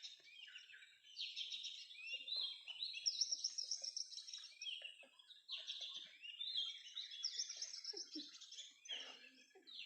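Small songbirds chirping in quick, overlapping high calls and short trills.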